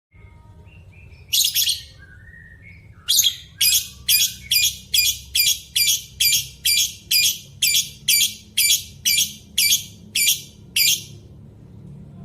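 A bird calling: one short loud call, then a regular run of short loud calls at about two a second for some eight seconds, with faint chirps in between.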